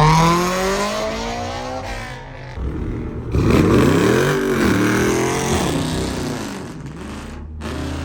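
Car engine revving hard. A rev peaks at the start and falls away, then about three seconds in a louder run of rises and falls in pitch sets in and fades out near the end.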